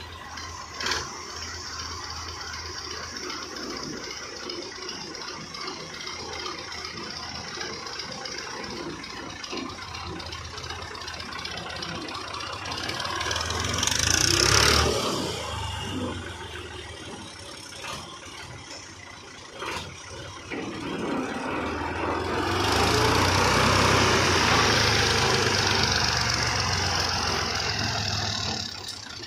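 Fiat 480 Special tractor's three-cylinder diesel engine running steadily, growing louder about halfway through and again for the last several seconds, with a few brief rattles.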